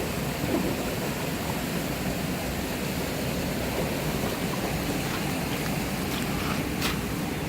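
Mountain stream water rushing steadily, with a faint click or two near the end.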